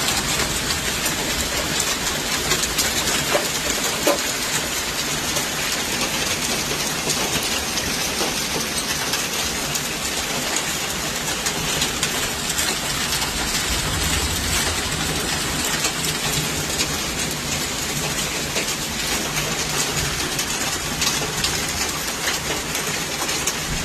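Hailstorm: hail and rain pelting down steadily, a dense, unbroken patter of many small sharp hits.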